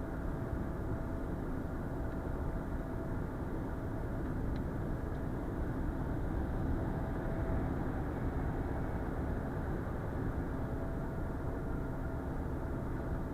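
Steady drone of a Renault Trucks T520 lorry on the move, engine and road noise heard from inside the cab, with a faint constant hum over it.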